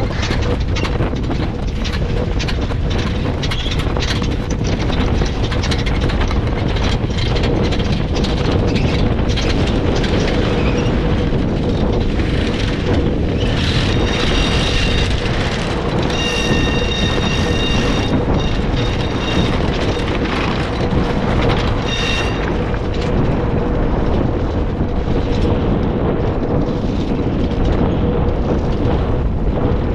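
Wind buffeting the microphone and water rushing along the hull of a small sailboat under sail, a loud steady rumble with a constant hum and many small knocks and clicks. A few high thin tones sound briefly about halfway through.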